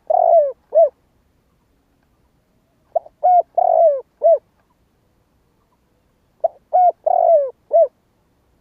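Spotted dove cooing: a phrase of two or three short coos, a longer coo that falls in pitch, then a final short coo. The phrase repeats about every three and a half seconds, heard three times.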